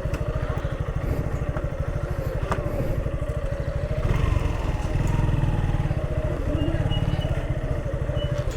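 Motorcycle engine running at low speed with a fast, even low pulse, picking up slightly about four seconds in.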